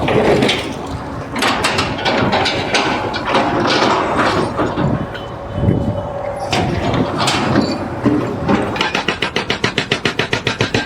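Irregular knocks and clatter, then about two seconds before the end a machine starts up in a fast, even pounding of about eight beats a second.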